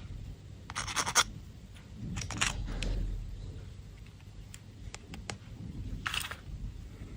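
Candy wrapping being handled: short bursts of crinkly rustling and scratching, about a second in, again around two and a half seconds, and near the end, with a few light clicks between.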